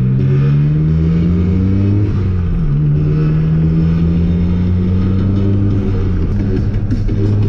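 Car engine under hard throttle, its revs climbing, dropping sharply about two and a half seconds in, then climbing slowly again before falling near the end.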